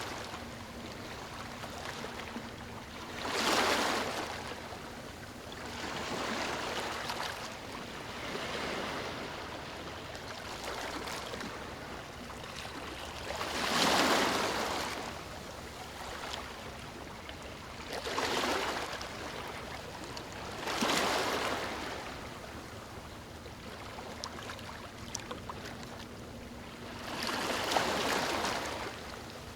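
Ocean waves breaking on a beach: a steady wash of surf with about five louder breakers, each swelling and falling away over a second or two, at irregular intervals.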